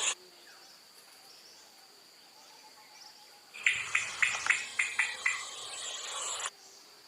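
Loud insect buzzing with a pulsing beat about three times a second that starts about halfway through and cuts off abruptly near the end. A faint, steady high insect tone runs beneath it.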